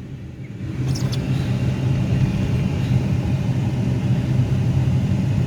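Steady low rumble of a Subaru driving on a snow-covered road, heard from inside the cabin: engine and road noise, growing a little louder about a second in.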